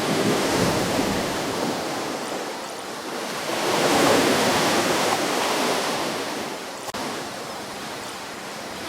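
Ocean surf: waves breaking and washing onto the shore as a rushing noise. It swells twice, the bigger surge about four seconds in, then eases off toward the end.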